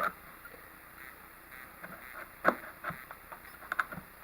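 Kitchen handling sounds: a few scattered knocks and clicks of utensils on a cutting board as the squash scraps are cleared away, with quiet stretches between.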